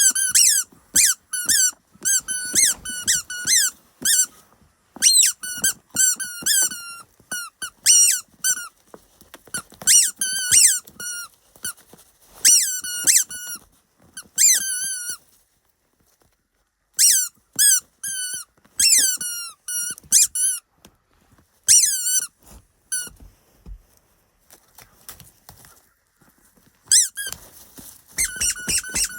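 Common raven giving a rapid series of short, high squeaky calls, each bending up and down in pitch, in bursts separated by brief pauses and a longer lull about halfway through.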